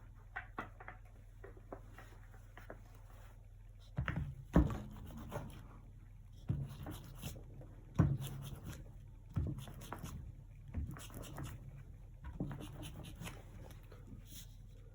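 Acrylic painting at work: irregular taps, dabs and scrapes of a brush on canvas and against paint pots, with a few louder knocks carrying a low thud about four, eight and nine seconds in. A faint steady hum lies underneath.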